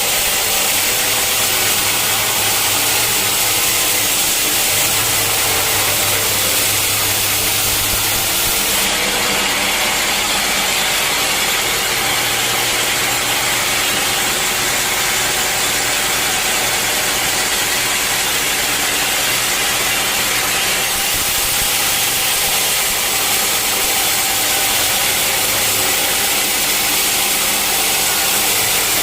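Sawmill machinery running steadily, a motor-driven saw with a constant hum under a loud hiss. The hiss shifts about nine seconds in and again about twenty-one seconds in.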